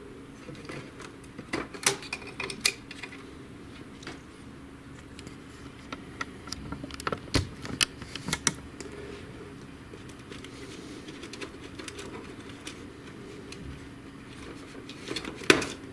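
Scattered clicks and taps of plastic printer parts and ribbon-cable connectors being handled while an HP DeskJet GT 5820 inkjet printer is taken apart. A low steady hum runs underneath.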